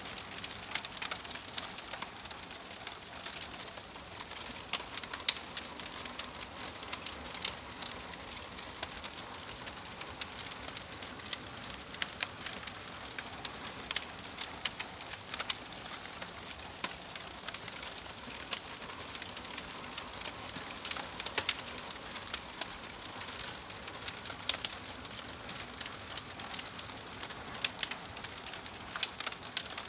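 Wood fire crackling: a steady hiss with irregular sharp pops and snaps, several a second.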